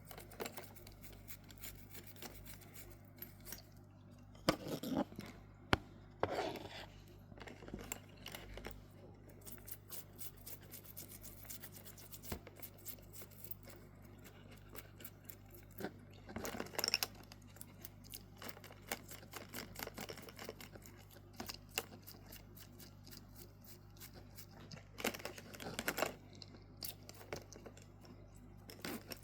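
Small watch parts and hand tools being handled on a Casio G-1800D watch: light clicks and taps throughout, with four longer scraping or rubbing sounds, over a steady low hum.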